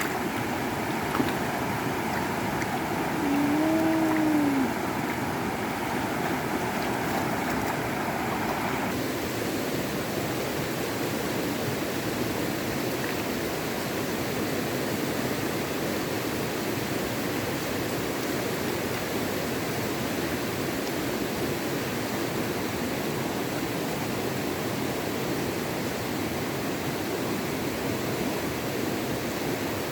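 Steady rushing of flowing water. A short rising-and-falling tone sounds about four seconds in, and the sound changes abruptly about nine seconds in.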